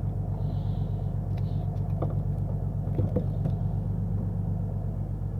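A fishing boat's engine running with a steady low drone, and a few faint clicks about two and three seconds in.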